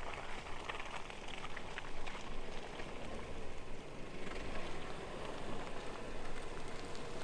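Off-road vehicle driving slowly over rough ground: a low engine rumble under irregular crackling and spattering from the tyres.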